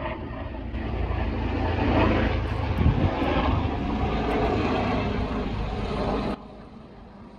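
Strong wind buffeting the microphone at the seashore, a heavy rumbling rush that swells and cuts off abruptly about six seconds in.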